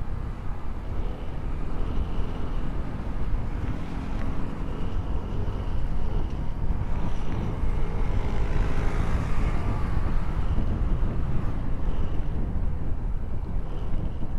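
Motorcycle on the move: the engine running under a steady rumble of wind on the action camera's microphone.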